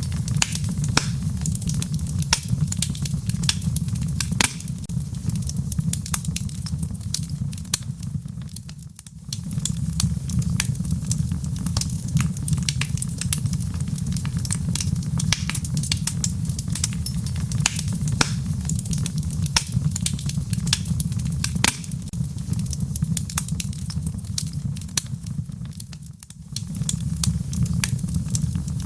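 Wood fire burning in a fireplace: a steady low rumble of flames with frequent sharp crackles and pops, the whole sound dipping briefly twice.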